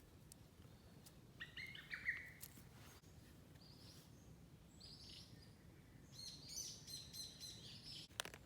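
Small birds chirping in several short spells of quick repeated calls, with a sharp click near the end.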